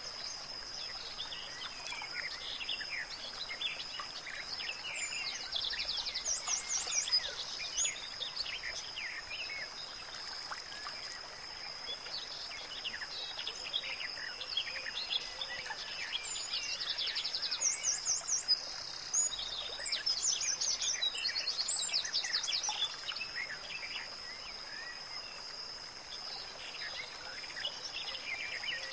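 Birds chirping and singing, with a few rapid high trills, over a steady high-pitched tone and faint background hiss.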